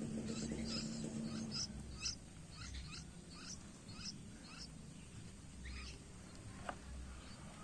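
Nine-day-old yellow-vented bulbul chick chirping: a run of short, high chirps, about two a second, fading out near the end, with a few faint clicks after.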